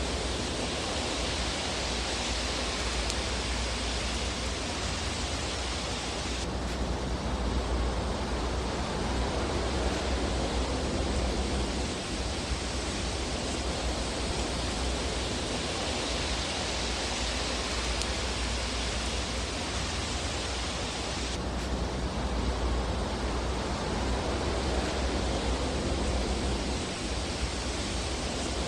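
Steady rushing hiss of a fireplace fire with a low rumble underneath and no distinct crackles. The hiss changes tone abruptly twice, about a quarter of the way in and again about three-quarters through.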